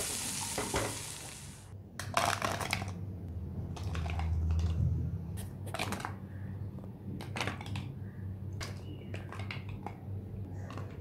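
Chana sautéing in butter in a non-stick frying pan, sizzling as a spatula stirs it, cut off suddenly about two seconds in. After that comes a series of light scrapes and taps as a spatula serves the chana into a paper bowl.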